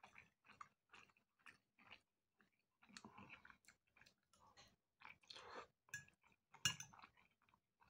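Faint close-up eating sounds: a man chewing a mouthful of soft boiled pasta, with soft irregular wet smacks and clicks of the mouth and one sharper click about two-thirds of the way through.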